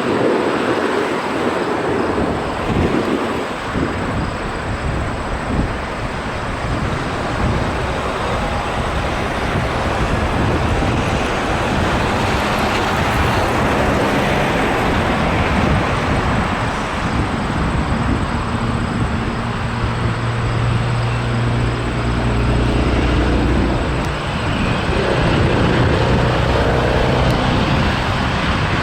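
Jet airliner engines running loud, a steady rumbling roar, with low droning tones joining in during the second half.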